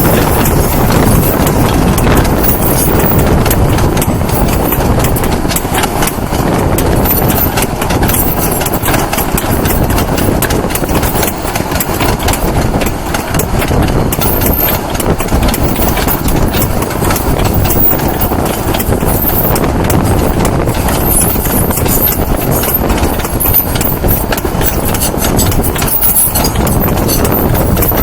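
Long sugar cane train on a narrow-gauge cane tramway rolling past: a steady clatter of many wagon wheels clicking over rail joints over a low rumble.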